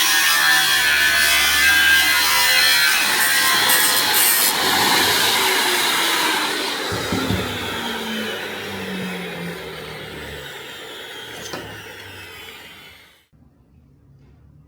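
A power tool grinding metal, steady at first, then fading away over several seconds as it winds down, and cutting off suddenly near the end.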